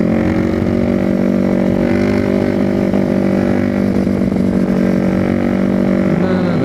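Yamaha WR450F single-cylinder four-stroke engine running at a steady cruise through a loud, blown-out FMF slip-on exhaust that needs repacking. The pitch holds fairly even, with small changes in revs around two seconds in and near the end.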